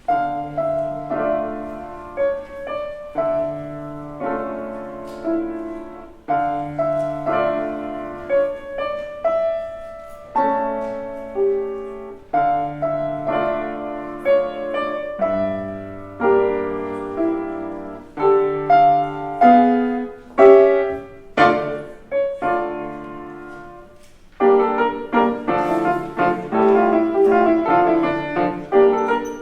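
Piano playing a slow melodic piece, single notes and chords that each strike and fade. About three quarters of the way in it pauses briefly, then goes on with fuller, denser chords.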